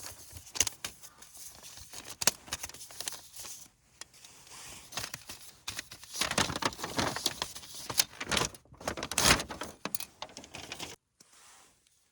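Camping gear being handled: irregular rustling with light metal clinks and scrapes, busiest from about six to ten seconds in, then stopping suddenly.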